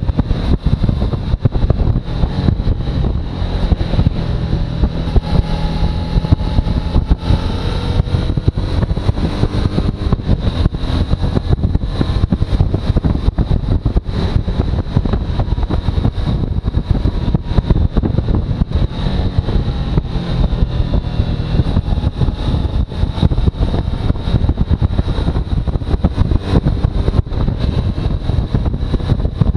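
Suzuki V-Strom motorcycle running under way, a continuous rough engine rumble, its pitch slowly rising and falling, heavily chopped by wind buffeting on the microphone.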